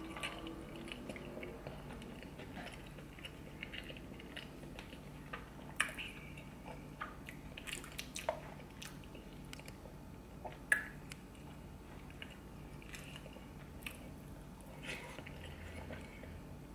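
Close-miked chewing of a mouthful of seafood boil in butter sauce: wet mouth sounds with scattered sharp smacks and clicks. The loudest come about six and eleven seconds in.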